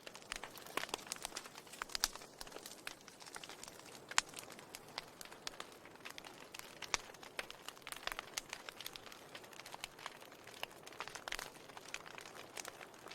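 Wood fire in a fireplace crackling: frequent irregular sharp pops and snaps over a soft steady hiss.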